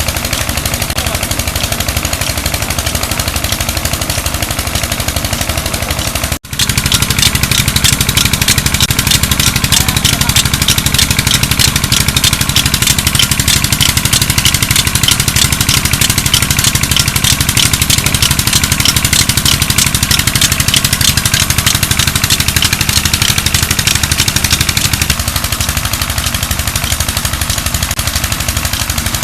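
Petter diesel engine running steadily on a tube well, firing in a fast, even clatter of knocks. The sound cuts out for an instant about six seconds in, then comes back a little louder.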